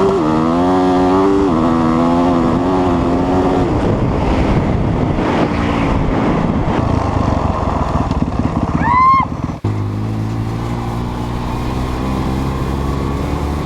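Off-road vehicle engine running under a rider, its pitch wavering up and down with the throttle, with a brief rising-and-falling whine about nine seconds in. After a sudden cut about two-thirds of the way through, an engine drones steadily at a lower pitch.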